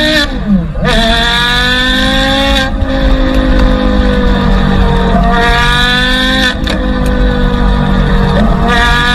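A car engine accelerating hard under load, its pitch climbing and then dropping back several times as if through gear changes. It starts abruptly.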